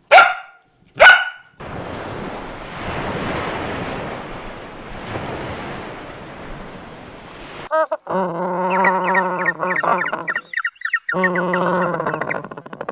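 Two short, loud dog barks, then several seconds of a steady rushing noise. Near the end comes a wavering, pitched animal call, given twice with a short break between.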